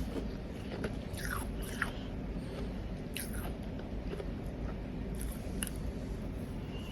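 Close-miked biting and chewing of powdery ice: irregular crisp crunches, a few of them with a short squeak.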